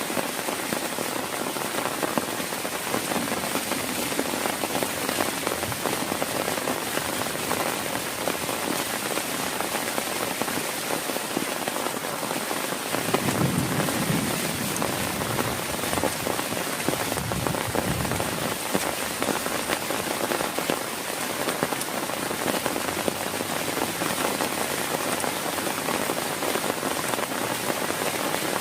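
Heavy rain falling steadily. Twice around the middle a brief low rumble rises under it.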